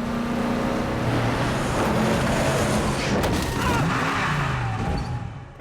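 Van engine running hard at speed with heavy road and tyre noise, its pitch rising and falling, then dying away sharply near the end.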